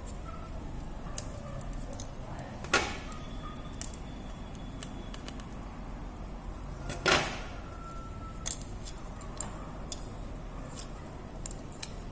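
Small tools and phone parts being handled on a work surface: scattered light clicks and taps, with two louder sharp knocks about three and seven seconds in, over a steady low hum.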